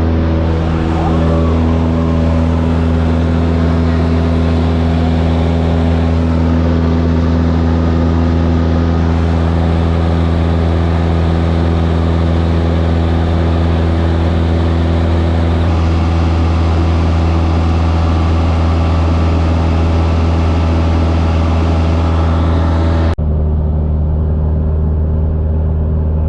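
Light piston airplane's engine and propeller running at a steady pitch, heard inside the cabin. Near the end the sound abruptly becomes duller as the hiss above it drops away.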